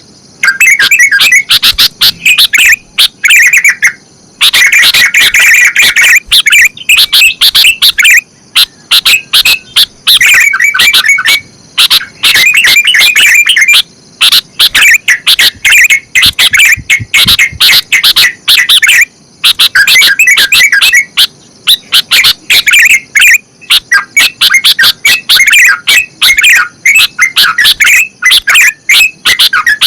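Bulbuls singing loudly: rapid chattering phrases that repeat almost without pause, broken by brief gaps.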